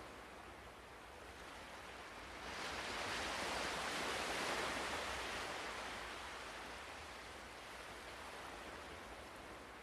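Ocean surf: a soft steady wash, with one wave swelling up about two and a half seconds in and fading away again a few seconds later.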